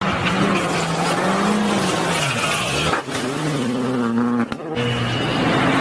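Rally car engine running hard, its pitch climbing and falling through gear changes, with two brief drops in sound about 3 and 4.5 seconds in.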